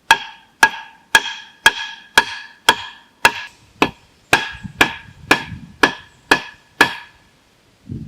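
A hand tool striking a hard object fourteen times in an even rhythm, about two strikes a second, each hit ringing briefly, as in chopping or hammering during shelter building. The strikes stop near the end.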